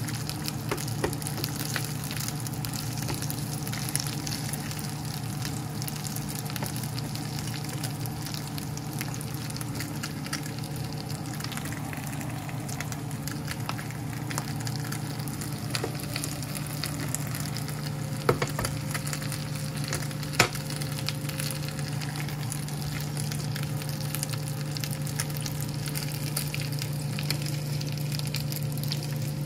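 Chicken pieces sizzling and crackling as they fry in a deep non-stick pan, over a steady low hum. A spatula turns the pieces, with two sharp clicks against the pan about two-thirds of the way through.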